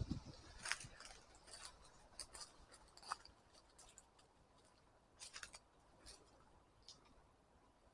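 Faint footsteps on dry forest leaf litter and twigs: a dozen or so irregular crackles and snaps with quiet gaps between, a small cluster of them about five seconds in.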